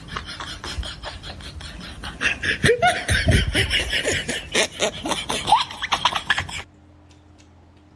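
Laughter that swells about two seconds in, over rapid clicking, then cuts off suddenly near the end.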